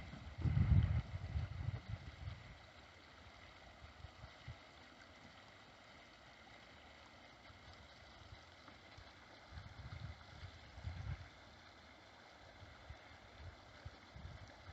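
Wind buffeting the microphone in low gusts, strongest during the first couple of seconds and again about ten seconds in, over a faint steady rush of river water.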